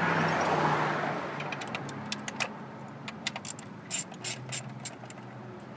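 A vehicle passes by with a rising and fading rush over a low hum. Then comes a scatter of sharp small clicks as a hand tool works the screws off the ignition coil cover on the Cutlass's distributor cap.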